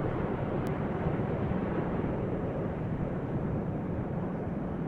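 Steady low outdoor rumble, even in level throughout.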